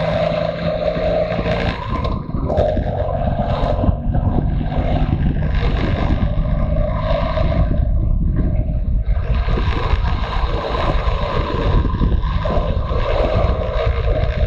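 Motorcycle engine running while riding, mixed with heavy wind rush on the microphone.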